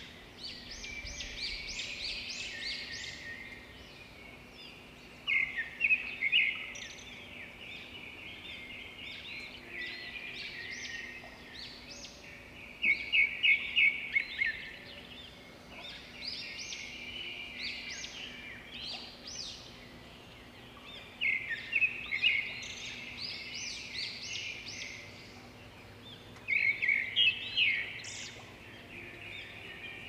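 Birds chirping and calling: runs of quick, high chirps that come in loud bursts about five, thirteen, twenty-one and twenty-seven seconds in.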